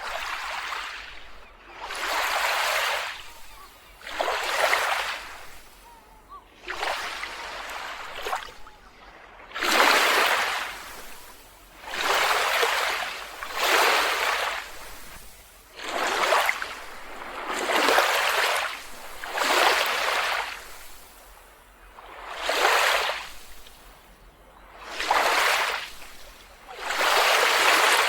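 Small waves washing onto a beach, each rush of surf swelling and fading, one about every two seconds.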